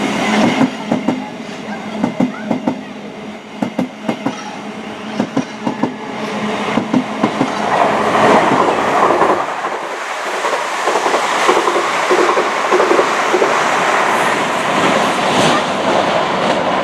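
A train passing on the tracks below, its wheels clicking rapidly over rail joints and points, then a louder, steady running noise of wheels on rail from about eight seconds in.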